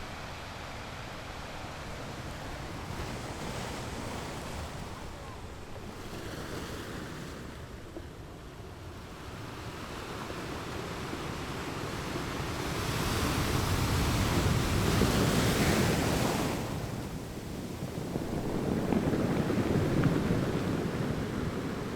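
Sea waves breaking on rocks: a steady wash of surf that swells into two louder crashes, one about two-thirds of the way in and another near the end, with some wind on the microphone.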